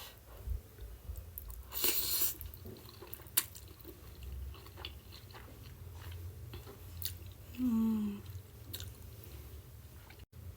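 Close-miked mouth sounds of a person eating a ramen meal: chewing and biting, with a louder hissy burst about two seconds in, a sharp click a little later, and a short hummed 'mm' near the end.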